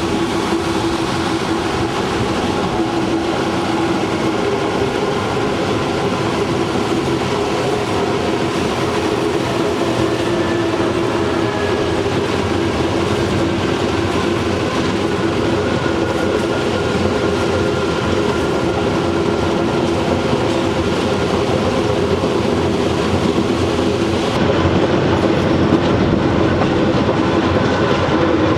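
Train running along the track, a continuous rumble with a steady hum and a faint whine that slowly shifts in pitch, with some clickety-clack of the wheels.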